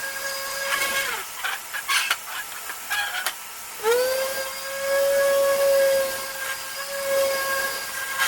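Electric sander smoothing rust off an old metal cart: its motor whine drops away about a second in, a few knocks and scrapes follow, then it spins back up with a quick rising whine just before four seconds in and runs steadily.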